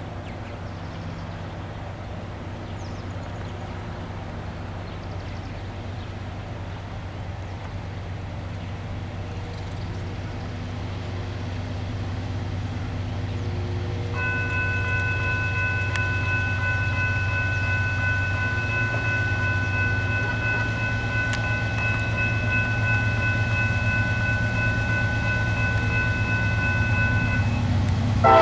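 Approaching train rumbling, growing steadily louder, with a long locomotive horn blast, several tones sounding together, starting about halfway through and held for about 13 seconds.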